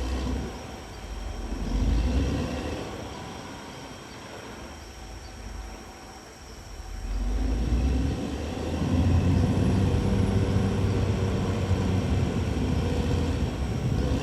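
Caterpillar D6R XL bulldozer's diesel engine working, its note swelling about two seconds in, easing off, then rising and holding loud through the second half.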